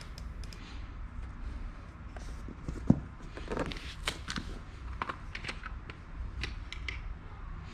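Scattered light clicks and soft rustling of small objects being handled, about a dozen brief ticks spread irregularly over a low steady background hum.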